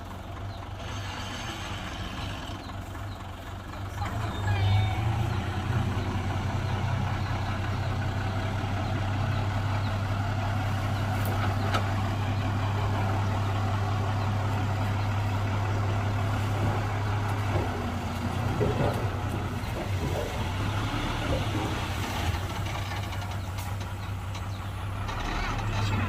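Diesel engine of heavy earthmoving machinery running, a steady low drone that gets louder about four seconds in and varies in the later part.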